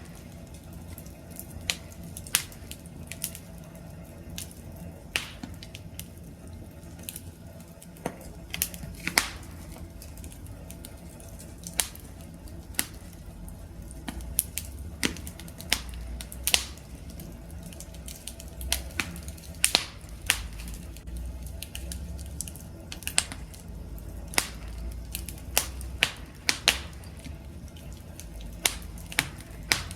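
Wood campfire crackling: irregular sharp pops and snaps, several a second, over a low steady rumble of burning.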